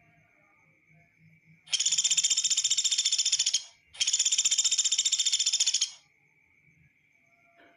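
Sunda pygmy woodpecker (pelatuk beras) giving two rapid, high-pitched trills of about two seconds each, the second following almost at once.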